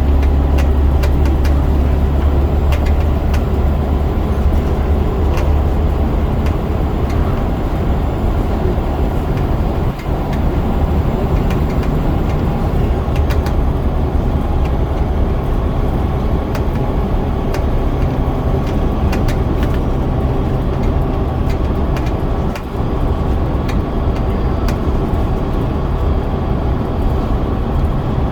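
Scania DC9 9.0-litre diesel of a Scania N94UD double-decker bus running under way, a steady low drone that is heaviest in the first few seconds. Light rattling clicks throughout, with two brief dips in the engine sound, about ten seconds in and again after twenty seconds.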